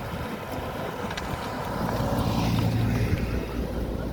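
Motor vehicle engine running with wind buffeting the microphone, the engine hum growing louder about two seconds in and easing off after three.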